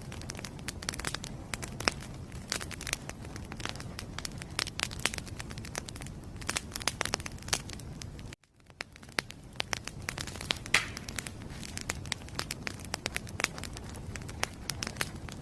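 Wood fire in a fireplace crackling, with dense irregular pops and snaps over a low, steady rush of flame. About halfway through the sound cuts out abruptly and fades back in.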